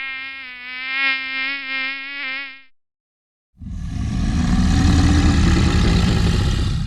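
A flying insect buzzing steadily with a slight waver, stopping about two and a half seconds in. After a short pause a different loud, rough, noisy sound starts and lasts about three seconds.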